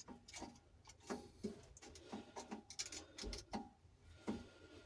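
Irregular light metallic clicks and taps, some with a brief ring, from hand work on a narrowboat engine and its shaft coupling.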